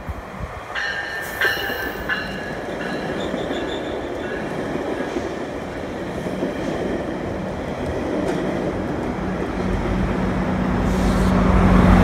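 GO Transit bilevel commuter train passing below, a steady rumble of the coaches on the rails, with brief high-pitched squealing about a second in. Near the end the diesel locomotive pushing at the rear comes past, its engine's low drone growing to the loudest point.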